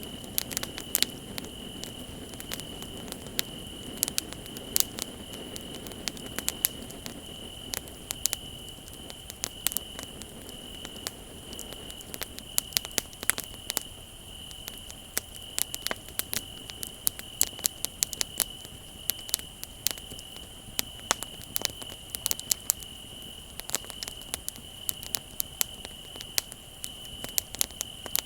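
Wood bonfire crackling with frequent sharp pops and snaps, over the steady high trill of crickets.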